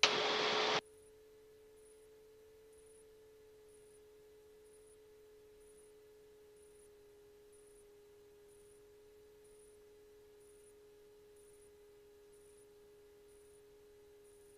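A burst of radio static lasting under a second, the loudest sound, then a faint steady whine tone in the aircraft's headset intercom audio.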